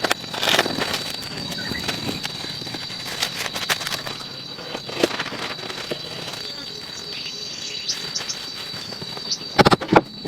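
A steady, high-pitched insect drone, with scattered clicks and rustles and a few sharp knocks near the end.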